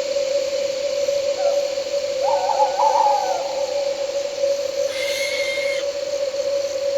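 An owl hooting, a wavering call about two seconds in, over a steady chorus of crickets and night insects. A brief higher-pitched call comes about five seconds in.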